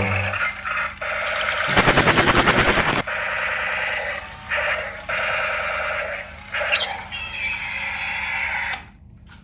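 Battery-powered toy train's small motor and plastic gears running in stops and starts, with a loud, fast rattle about two seconds in.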